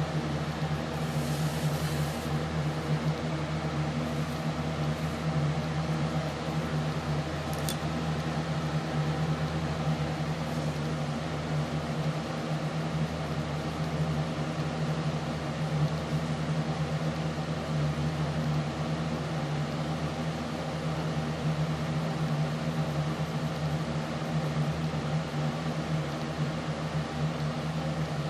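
A steady machine hum made of several even, unchanging tones, with a short faint hiss about a second in and a single click near eight seconds.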